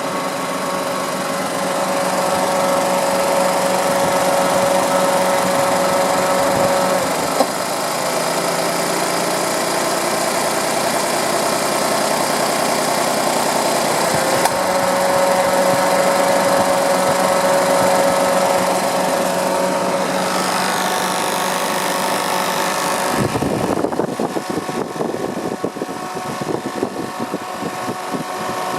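Nissan Moco's small 660 cc three-cylinder engine idling steadily, with a steady whine over it that drops out for a few seconds partway through and then returns; the sound changes near the end.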